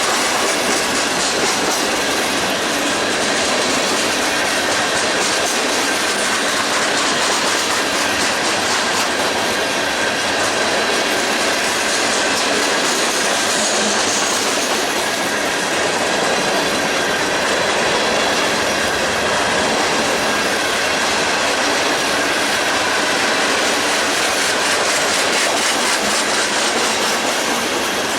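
Freight cars rolling past on steel rails: a steady, even rumble of wheels with rapid clicking and a faint high wheel whine held throughout.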